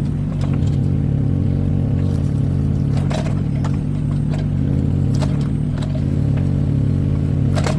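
Mini excavator's diesel engine running steadily, with short scrapes and knocks about half a dozen times as the scraper attachment works the floor.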